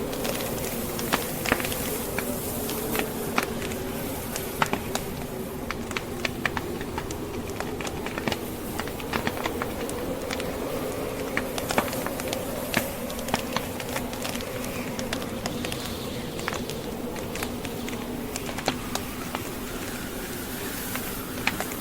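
Log fire crackling, with irregular sharp pops and snaps, over the steady wind of a snowstorm blowing with a low, wavering whistle.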